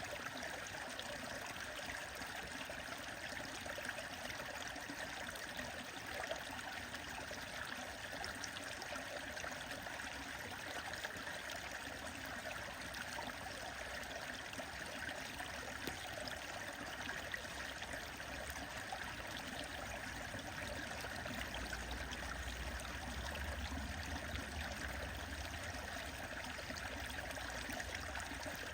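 Steady rushing and trickling of a stream, with a low rumble for several seconds near the end.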